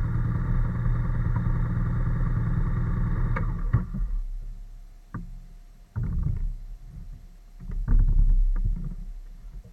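Honda NC750S parallel-twin motorcycle engine running steadily, cutting out about four seconds in as it is switched off. A few irregular thumps and rustles follow.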